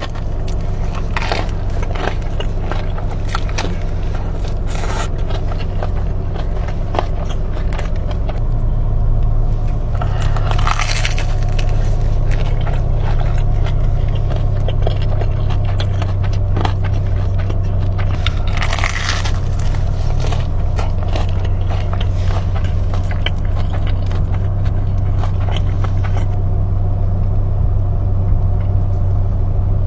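Close-up eating sounds: bites, crunching and wet chewing of food, with a steady low hum underneath.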